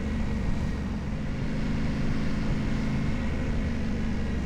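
Yamaha Ténéré 700's 689 cc parallel-twin engine running steadily under the rider.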